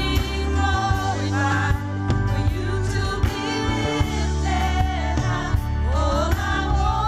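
Gospel praise team singing with a band: several voices holding and sliding between sustained notes over a steady bass line and drum beats.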